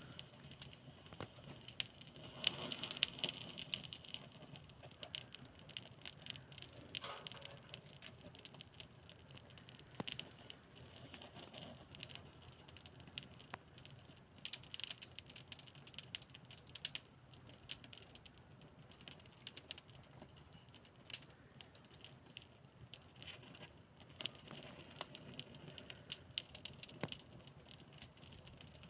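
Wood fire crackling, with irregular sharp pops and snaps over a soft hiss; a busier, louder stretch of crackling about three seconds in.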